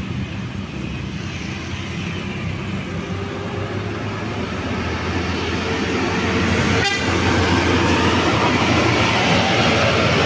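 A heavy vehicle's engine running as it passes, growing louder through the second half, with road noise, a horn tone and one brief sharp click.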